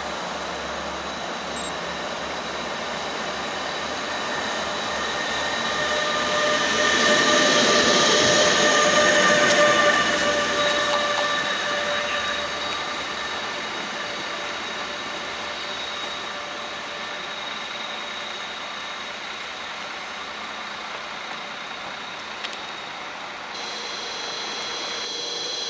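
Bombardier Traxx P160 AC2 (class 146.2) electric locomotive running light past: the traction converters give a whine of several steady tones over the rail rumble, swelling to a peak about 8 to 10 seconds in and then fading away. Near the end a different set of higher whining tones sets in.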